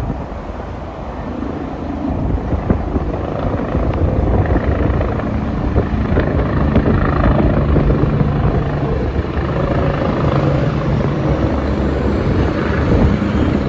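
Helicopter's rotor and engine running overhead, getting louder over the first few seconds and then holding steady.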